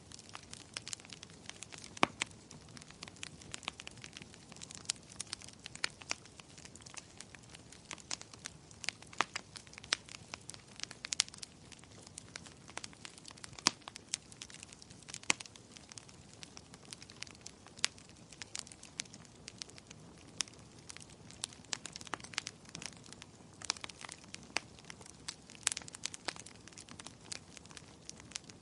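Wood fire crackling in a fireplace: irregular sharp pops and snaps of burning wood over a soft low hiss of flames.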